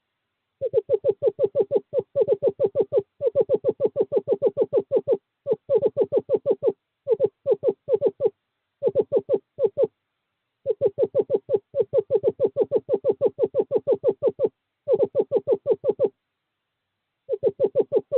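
Male screech owl giving its monotone trill: runs of rapid, even notes at one steady pitch, about nine a second, in bursts of one to four seconds with short pauses between. It is a courtship call to a female at the nest box.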